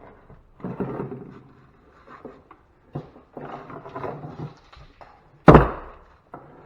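Scrap electrical parts being handled and shifted on a workbench, then one heavy knock about five and a half seconds in: a blow struck while breaking apart electrical outlets for their brass.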